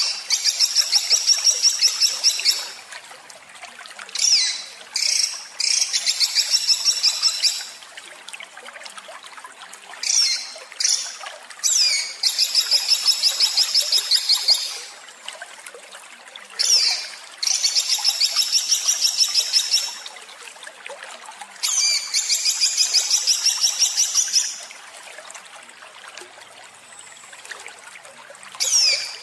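A songbird's harsh, rapid-fire song in the 'tembakan kasar' style used as masteran tutor song: five long trains of fast, closely repeated high notes, about ten a second and each lasting two to three seconds, with short sweeping calls and pauses between them.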